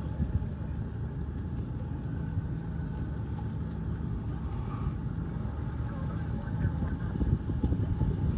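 A steady low engine rumble with a faint hum.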